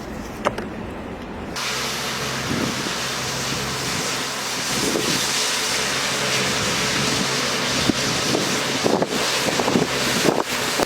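Blizzard wind rushing across the microphone, a steady hiss that grows stronger and brighter after an abrupt change about a second and a half in, with a low steady hum beneath and a few short knocks near the end.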